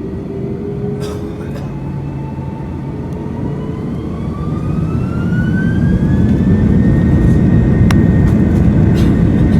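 Airbus A330 jet engines spooling up to takeoff thrust, heard inside the cabin: a whine that rises in pitch over a loud rumble that builds, then holds steady about seven seconds in.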